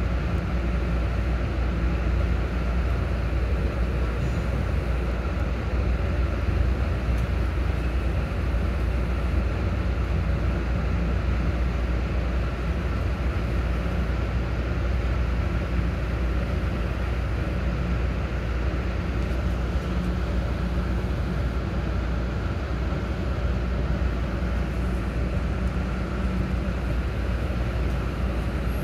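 Steady rumble of a MARC commuter train in motion, heard from inside the passenger car.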